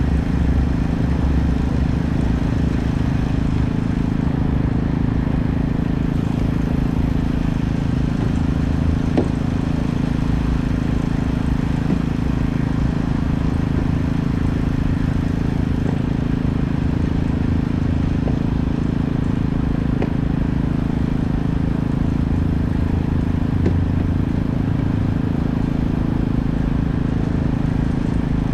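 An engine running steadily at constant speed: a continuous low hum and rumble that never changes, with a few faint ticks.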